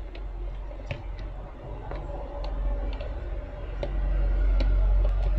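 Scattered light clicks from a front-loader washing machine control board and its power lead being handled during a power-on test. They sit over a steady low hum that grows louder about four seconds in.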